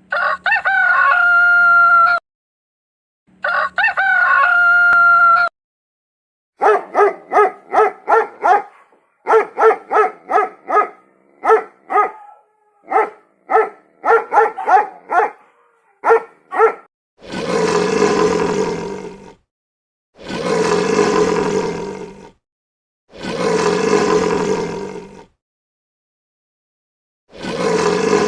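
A rooster crows twice. Then come about ten seconds of quick, short animal calls in rapid runs. Four long, rough calls of a large animal follow, each about two seconds long and a second apart.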